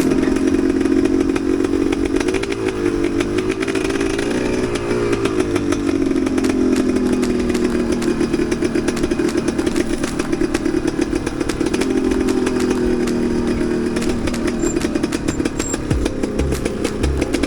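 Enduro motorcycle engine running under way off-road, its pitch rising and falling with the throttle a few seconds in, then holding fairly steady.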